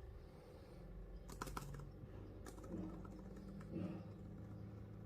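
A few faint clicks and taps over a low steady hum: a quick cluster about a second and a half in, a single click a second later, and a soft thump, the loudest sound, near the end.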